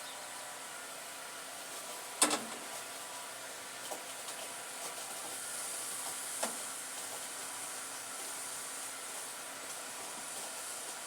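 Thin film of oil sizzling in a hot pot, a steady soft hiss, with a sharp clink about two seconds in and a lighter one later.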